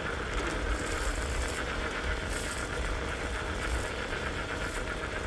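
Small e-bike riding along: a steady low wind rumble over the microphone, with a constant rattle and hum of the ride.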